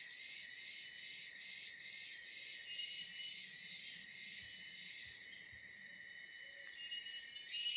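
Forest insects chorusing: a steady, high-pitched trill with a faint pulse about twice a second.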